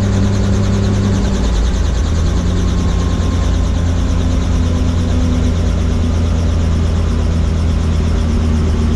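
Helicopter running steadily: a loud engine and rotor drone with a fast blade flutter. Its low note changes about a second and a half in.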